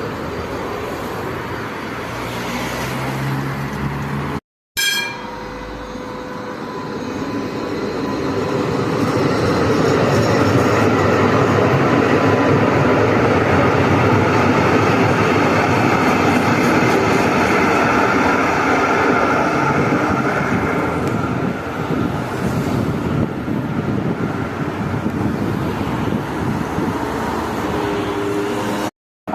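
Üstra TW6000 tram running past on the rails, its wheel and motor noise swelling to a loud, steady peak and then easing off. A short ding rings out about five seconds in.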